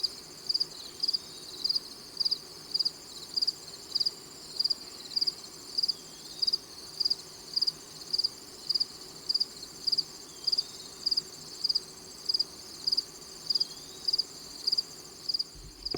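Crickets chirping evenly, just under two chirps a second, over a steady high trill of other insects.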